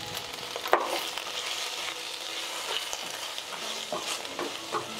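Onions and capsicum sizzling as they fry in chilli tomato sauce in a stainless-steel kadai, while a wooden spatula stirs them and scrapes the pan, with a sharp knock against the steel about three-quarters of a second in.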